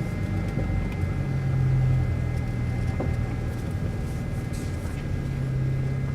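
Exhaust of a BMW 328i E90's inline-six running with the muffler deleted, heard from the cabin with the driver's window down as the car rolls slowly. The low exhaust drone swells about a second in and again near the end.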